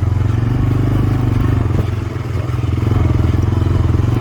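Four-wheeler (ATV) engine running steadily, with a brief dip in level about halfway through.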